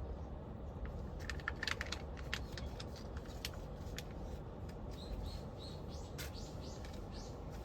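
A small bird chirping, a quick run of short high calls from about five seconds in, after a scatter of light clicks.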